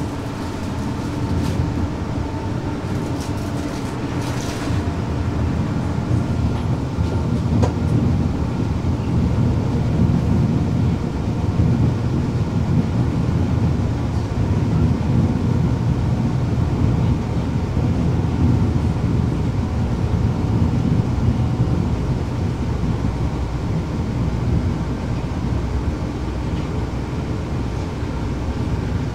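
Inside the passenger saloon of a Class 360 Desiro electric multiple unit running at speed: a steady rumble of wheels on rail, with faint steady tones above it. A few light clicks come between about one and five seconds in.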